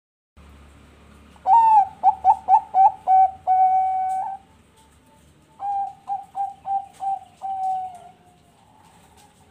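Zebra dove (Bangkok-strain perkutut) singing its cooing song: two phrases, each a quick run of short staccato coos. The first, louder phrase ends in a long held coo, and the second trails off on a falling note.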